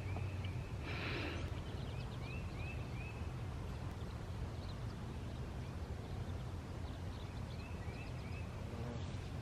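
A bird singing a phrase of short, quickly repeated arched chirps, once at the start and again near the end, over a steady low hum of distant background noise. A brief rustle comes about a second in.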